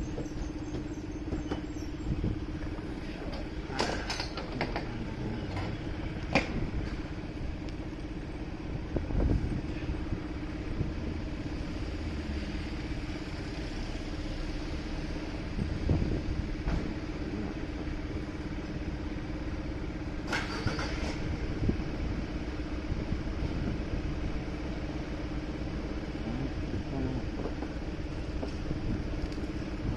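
Motorcycle engine running steadily under city traffic noise, with a steady hum and a few brief knocks and clatters along the way.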